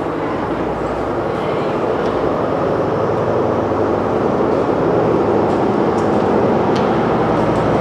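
Steady rumbling roar of a train running nearby, echoing through the underpass and slowly growing louder, with a few faint ticks over it.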